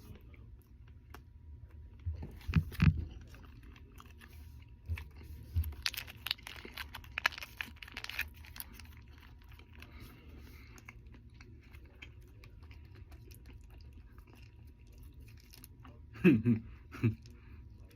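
Close-up chewing and biting of fast food, with wet, crunchy mouth sounds in scattered bursts, busiest about two to three seconds in and again around six to eight seconds in.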